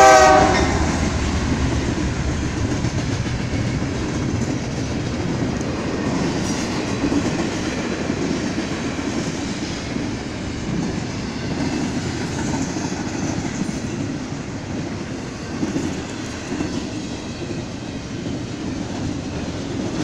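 BNSF freight train's double-stack intermodal container cars rolling past, a steady rumble of steel wheels on rail. The locomotive's horn cuts off just at the start.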